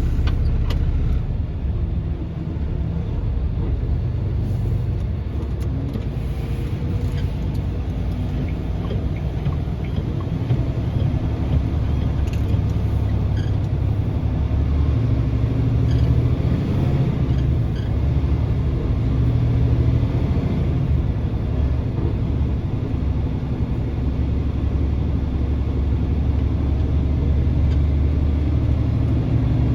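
Steady low rumble of a vehicle's engine and road noise while driving, with a few faint clicks.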